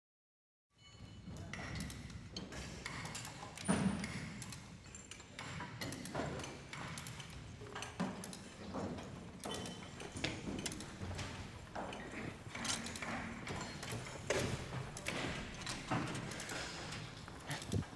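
Irregular knocks, clicks and clatter over a steady low background noise, beginning about a second in after silence.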